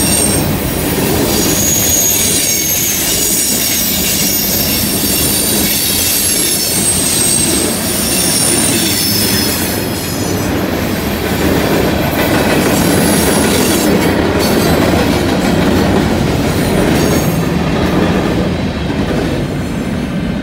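Loaded freight cars, covered hoppers and tank cars, rolling past on a curve: a steady heavy rumble of steel wheels on rail, with high, thin wheel squeal from the curve, strongest in the first half and briefly again near the end.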